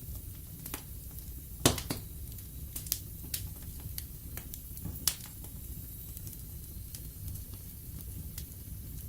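Wood fire burning in a fireplace: a low steady rumble of flames with scattered sharp crackles and pops from the logs. The loudest pop comes about a second and a half in, and another strong one about five seconds in.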